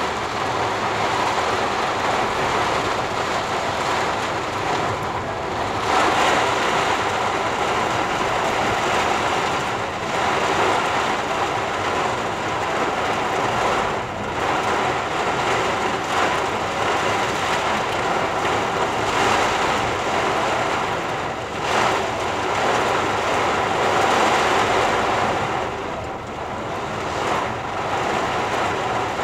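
Heavy rain falling on a car's roof and windscreen, heard from inside the cabin: a loud, steady, dense hiss that swells a little every few seconds.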